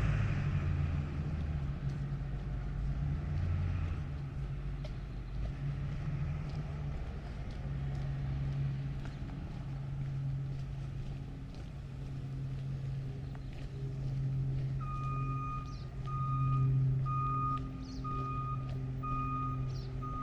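A truck's engine running, and from about three-quarters of the way through, its reversing alarm beeping steadily about once a second.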